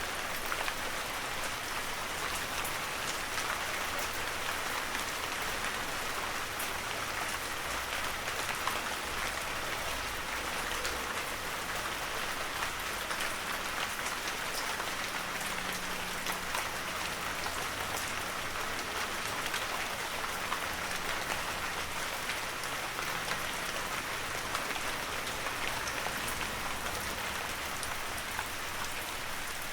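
Heavy rain falling steadily, a dense even hiss with many sharp individual drop ticks.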